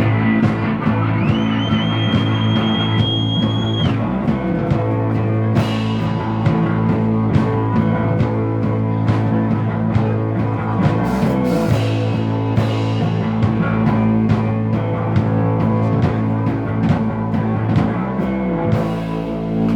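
A rock band playing an instrumental psychedelic rock passage: guitar with gliding, held high notes in the first few seconds over bass and a steady drum kit beat.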